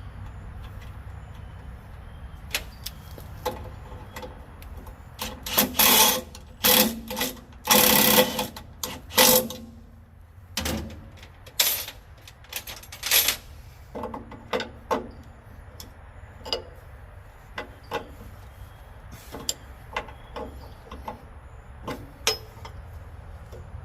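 Hand-tool clicks and metal knocks from work on a truck's air brake hose fittings, with several loud noisy bursts between about five and thirteen seconds in, over a steady low hum.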